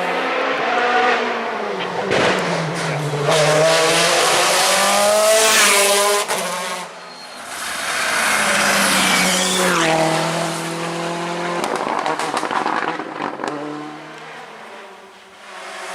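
Rally car engines at full throttle along a stage, the pitch climbing and dropping as they shift gear and lift off, with tyre noise from the road surface. The sound drops away briefly about seven seconds in and again near the end as the passes change.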